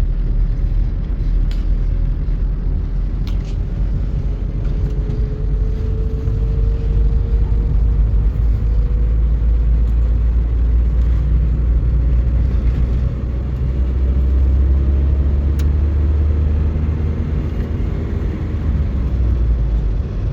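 Car interior noise while driving: a steady low rumble of engine and road, with a faint whine that rises slowly in pitch a few seconds in.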